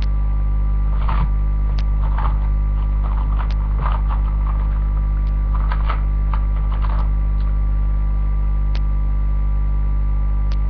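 Steady electrical mains hum, strong and low, with faint rustles and a few sharp clicks between about one and seven seconds in.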